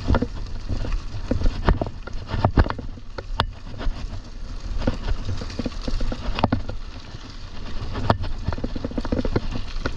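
Mountain bike riding over rough ground: irregular knocks and rattles over a steady low rumble.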